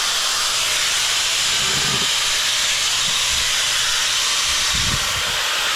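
Angle grinder with a new blade cutting through a large porcelain tile: a steady, loud, high hiss that runs without a break.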